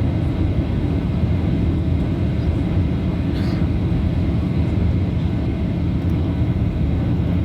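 Airliner's steady low rumble of engines and rushing air, holding even without rising or falling.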